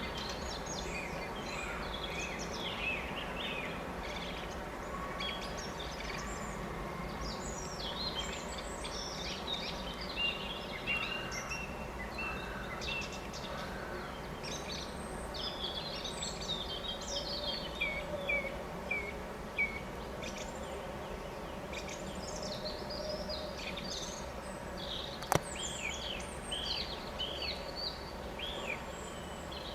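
Several songbirds chirping and singing over a steady low background hiss, including a short run of four descending notes. A single sharp click cuts through about 25 seconds in.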